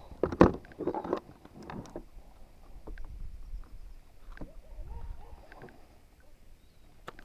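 Knocks and handling noises on a fishing kayak, loudest and most frequent in the first two seconds, then a few scattered light clicks.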